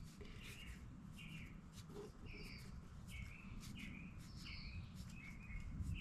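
Small birds chirping faintly, a quick run of short high chirps about two a second, over a low background rumble.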